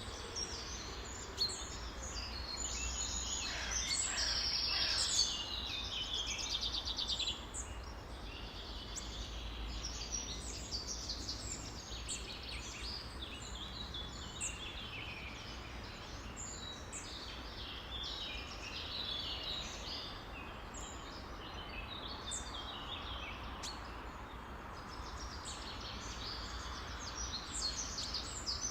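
Many songbirds chirping and singing at once in a dense, overlapping chorus, with a buzzy rapid trill about four seconds in, over a steady low rumble.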